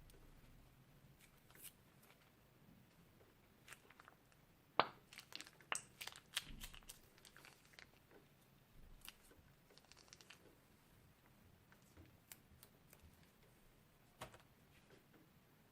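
Crunchy slime being pressed and worked by hand, giving faint, irregular crackles and crunches, with a dense cluster about five to seven seconds in and a few scattered ones after.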